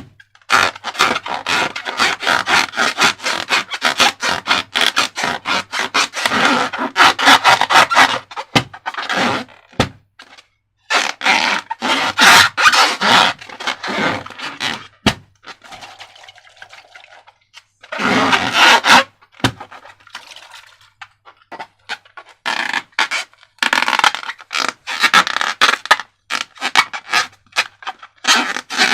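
Slime being worked by hand: runs of dense crackling, squishing and scraping noises in bursts, with brief pauses about ten seconds in and again in the middle.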